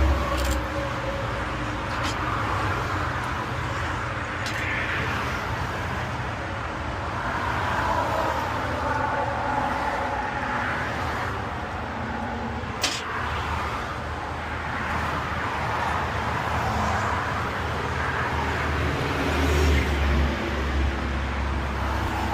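Motor vehicle engine running steadily, with road traffic noise around it and a single sharp click about thirteen seconds in.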